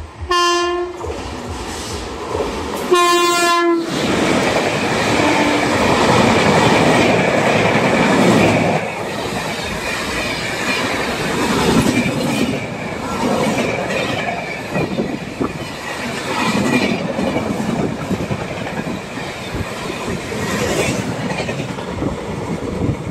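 A WAP7 electric locomotive's horn blares twice: a blast ending just after the start and another short one about three seconds in. Then the locomotive and its rake of passenger coaches run through at high speed, a loud rushing with the wheels clattering rapidly over the rail joints.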